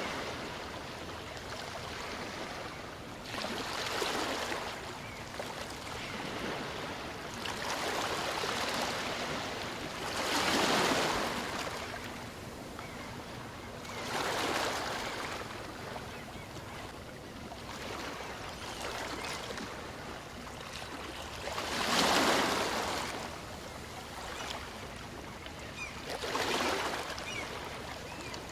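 Small waves of a calm sea washing in and out on a shore, each surge of surf swelling and fading every few seconds, the biggest about ten seconds in and again about twenty-two seconds in.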